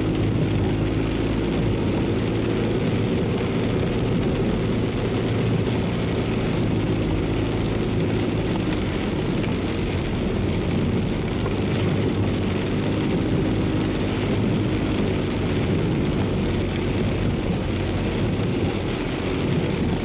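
A car driving through heavy rain, heard from inside the cabin. Engine and tyres on the wet road make a steady hum, with rain hitting the car over it.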